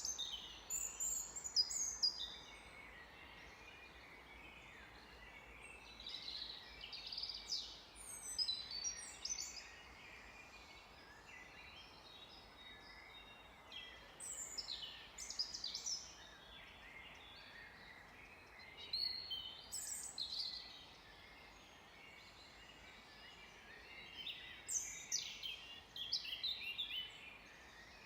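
Songbirds singing in short phrases of rapid, high, falling notes, about five phrases spaced a few seconds apart, over a steady background hiss.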